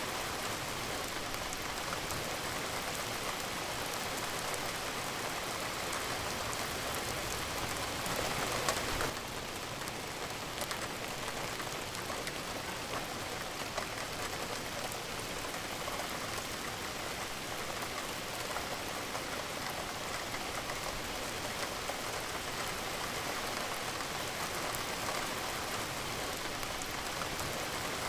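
Steady rain falling on a surface: an even hiss of drops, briefly louder about eight seconds in.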